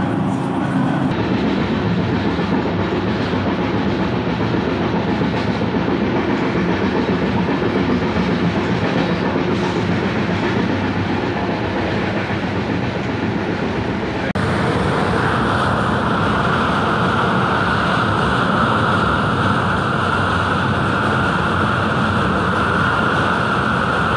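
Passenger train running along the track: a steady rumble and rattle of wheels on rails. About fourteen seconds in the sound changes abruptly and a steady high tone joins it.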